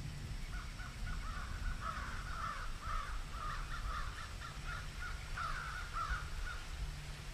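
A bird calling in a rapid run of short notes for about six seconds, stopping shortly before the end, over a low steady rumble.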